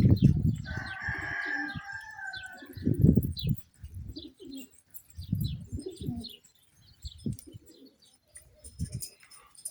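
Domestic pigeons cooing, several low coos spaced a second or two apart, with a higher, drawn-out call about a second in and faint high chirps between.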